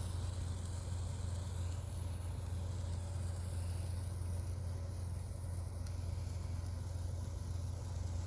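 A steady low hum that does not change, with no bangs or crackles from fireworks, and a faint high insect-like buzzing above it.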